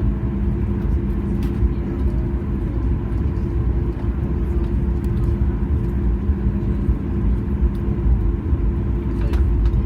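Steady low machine rumble with a constant droning hum and a few faint clicks.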